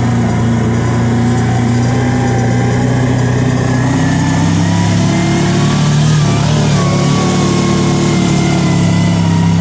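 Kawasaki Teryx side-by-side's V-twin engine running under way, its pitch rising a little about halfway through as it picks up speed, then holding steady.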